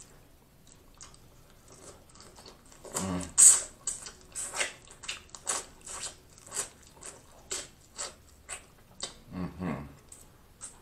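Close-miked chewing of sauce-dipped crab meat: wet smacking and squishing mouth sounds at about two a second, starting about three seconds in with one sharp, louder smack.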